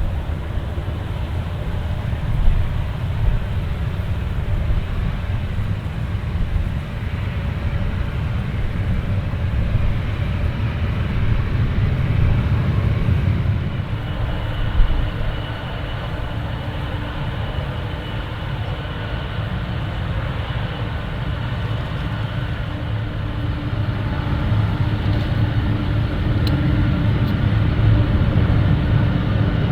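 Boeing 777-300ER's GE90 jet engines rumbling low and steady. About halfway through, a whine joins in, and the sound grows louder toward the end.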